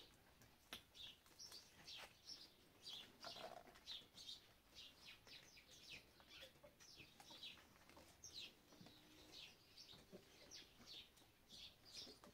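Small birds chirping faintly: a steady run of short, falling chirps, several a second.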